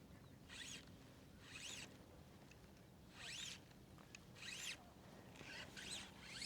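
Textured fly line being stripped in through the rod guides in short pulls, a faint zipping rasp about once a second as the fly is retrieved.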